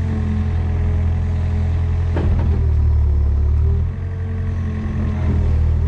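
Mini excavator engine running under steady work. It gets louder for about a second and a half partway through, as if loaded, with a single clank a little before that.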